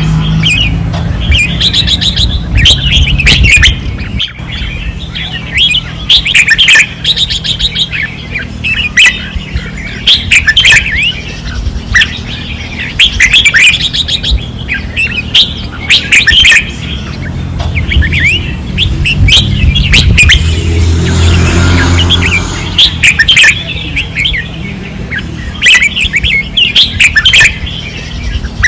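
Red-whiskered bulbuls singing hard: short, bright warbled phrases repeated every second or two, some overlapping, over a steady low hum.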